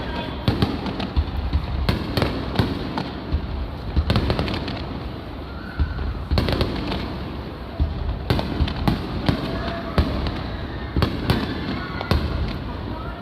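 Aerial fireworks bursting overhead in quick succession: deep booms mixed with rapid sharp crackling.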